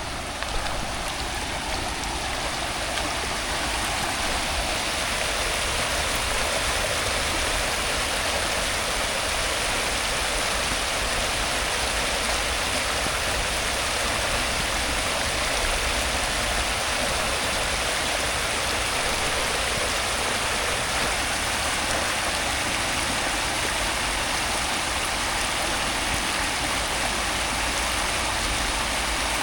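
Steady rushing water, a constant dense hiss that grows a little louder over the first few seconds and then holds, with a low rumble underneath.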